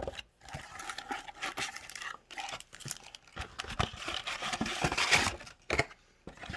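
Packaging of a trading card box being torn open and handled: irregular crinkling, tearing and rustling of wrapper and cardboard, loudest about five seconds in.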